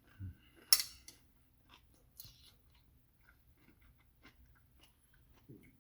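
Close-miked eating of spicy stir-fried chicken with rice: soft chewing and mouth sounds with faint scattered clicks. A sharp click, the loudest sound, comes a little under a second in, and a second one just after two seconds.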